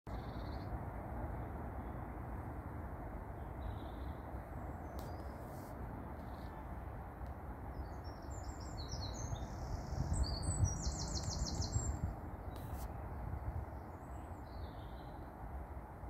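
Birds chirping and calling, with a quick run of repeated chirps just past the middle, over a steady low outdoor background noise that swells for a couple of seconds at the same time.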